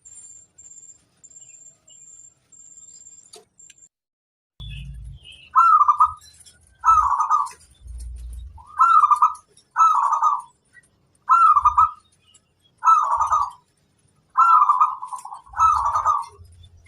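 Zebra dove (perkutut) cooing: from about five seconds in, a regular run of short rolling coos, about one every second and a half. A faint, high pulsing tone comes before the cooing starts.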